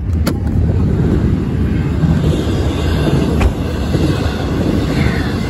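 Florida East Coast Railway freight train rolling through a grade crossing: a steady low rumble of wheels on rail, with a couple of sharp clicks.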